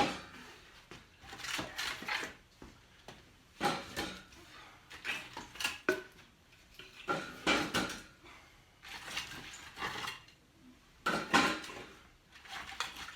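Split firewood clattering and knocking as pieces are handled and stacked into a wood ring: about a dozen irregular knocks and scrapes, some in quick pairs.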